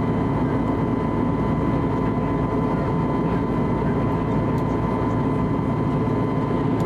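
Steady cabin noise inside an Airbus A320neo in flight: a constant rush of air and hum from its CFM LEAP-1A engines, with a thin steady whine.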